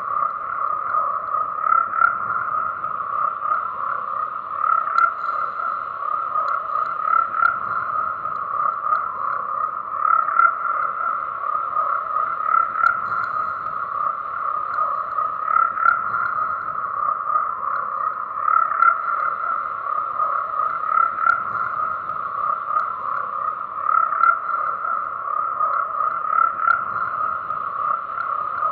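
A chorus of frogs calling continuously: dense overlapping croaks, swelling louder about every two to three seconds.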